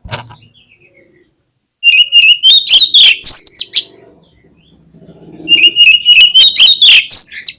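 Oriental magpie-robin (kacer) singing loudly in two phrases, a few seconds apart. Each opens with a run of rapid, even high notes and breaks into fast whistles and rising slurs. A short knock sounds at the very start.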